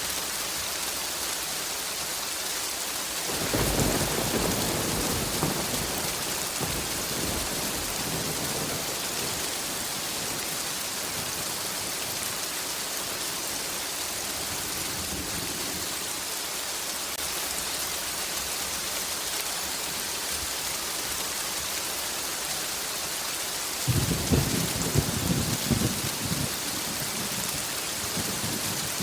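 Steady heavy rain hissing, with thunder rolling in twice: a low rumble starting a few seconds in and dying away slowly, and a sharper peal with several cracks near the end.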